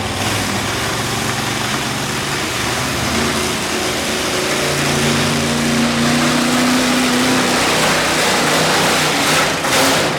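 Monster truck engines running loudly, with one engine revving up and holding higher for about three seconds midway through.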